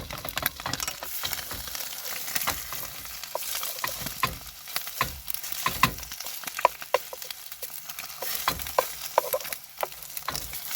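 Breakfast frying in a hot pan: a steady sizzle with frequent sharp pops and crackles.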